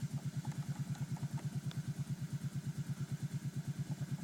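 ATV engine idling steadily with an even pulsing beat, about nine pulses a second.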